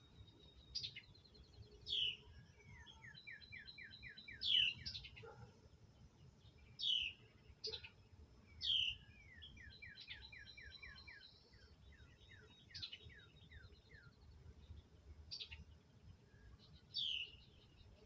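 Carolina wren calls: sharp down-slurred chirps every second or two, with two runs of quick repeated notes between them.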